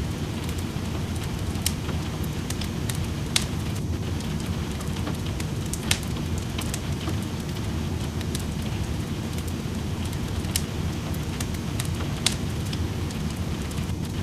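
Wood fire crackling in a fireplace, with sharp pops every second or two, over a steady hiss of rain.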